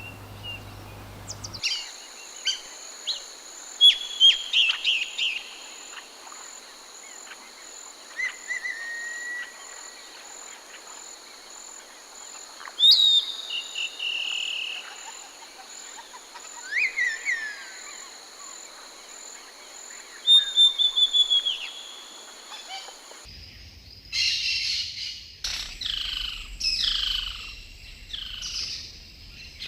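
Jungle birds calling with assorted chirps, whistles and quick runs of notes, over a steady high-pitched insect drone. About three-quarters of the way through, the recording cuts to another stretch where a bird gives a series of quick descending calls, about one a second.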